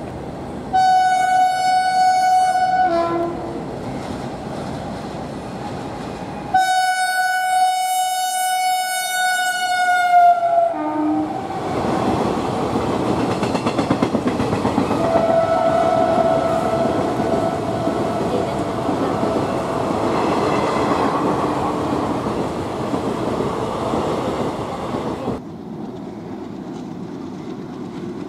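Locomotive horn sounding two long steady blasts, the second about four seconds long, then a passenger train running past with a loud rumble and wheels clattering over the rail joints.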